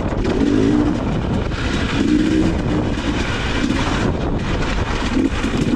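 Dirt bike engine revving up and falling back in bursts while riding, over heavy wind rumble on the camera microphone.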